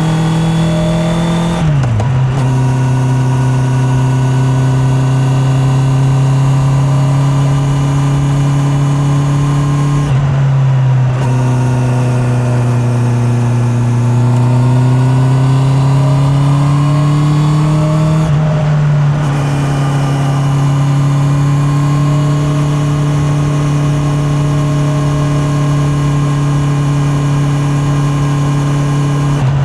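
Honda CB650R's inline-four engine running under way at steady revs, with short breaks about two, ten and nineteen seconds in where the pitch drops, as at gear changes. After the middle break the revs sag and then climb steadily again.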